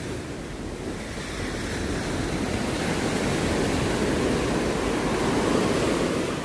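Sea waves washing onto a beach, the surf swelling over a few seconds and easing off near the end, with wind on the microphone.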